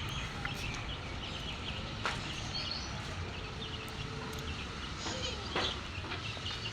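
Small birds chirping repeatedly over a steady outdoor background noise, with a couple of short knocks.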